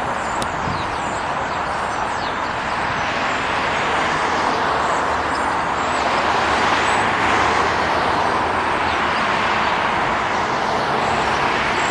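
A large flock of European starlings: a steady rushing din that swells slightly toward the middle, with faint high chirps above it.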